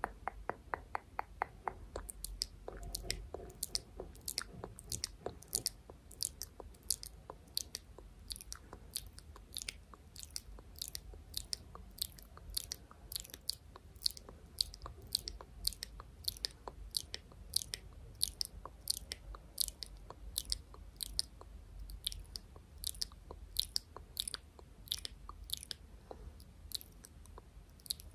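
Close-miked ASMR clicking: a quick run of soft clicks that about two seconds in gives way to steady, crisp, sharp clicks at about two a second.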